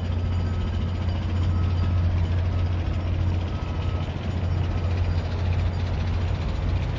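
Steady low engine rumble of trucks or construction machinery, with a faint reversing alarm beeping about once a second in the first few seconds.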